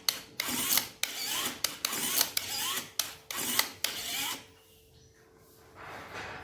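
Rasping back-and-forth strokes of a hand tool working material, about two strokes a second, stopping about four seconds in, with one fainter stroke near the end.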